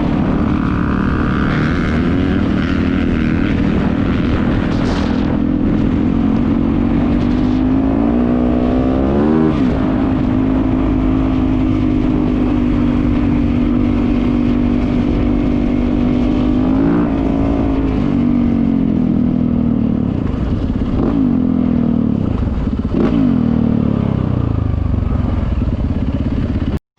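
Four-stroke single-cylinder dirt bike engine running on the move at a steady pitch, with short bursts of throttle where the pitch climbs and drops about nine, seventeen, twenty-one and twenty-three seconds in. The sound cuts off suddenly near the end.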